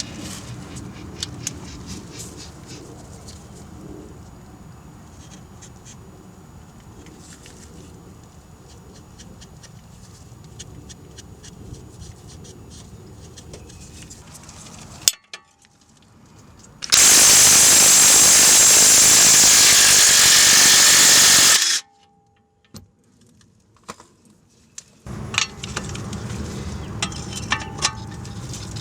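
Hand-tool work on a car: scattered metallic clicks and clanks, then a sharp click. After that comes a loud, steady rush of noise lasting about five seconds that cuts off suddenly, and near the end the tool clicking starts again.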